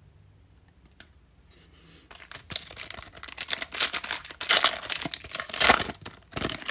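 A foil trading-card pack wrapper being torn open and crinkled, starting about two seconds in, after a single click about a second in.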